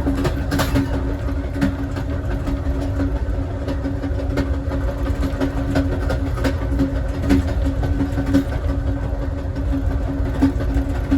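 Steady low rumble and hum of the Amtrak Southwest Chief passenger train rolling along the track, heard from inside its rear car, with scattered light clicks.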